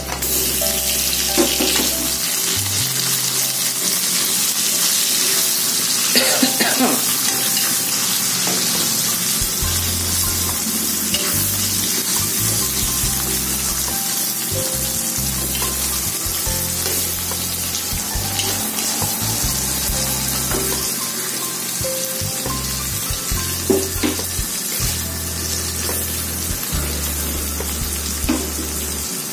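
Tomato wedges frying with a steady sizzle in hot oil in a wok, among sautéed chilies, shallots and stink beans. A spatula stirs them, scraping or knocking against the pan a few times.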